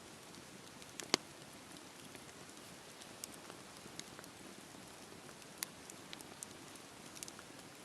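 Campfire burning, a soft steady hiss under scattered sharp crackles and pops of the wood, the loudest about a second in.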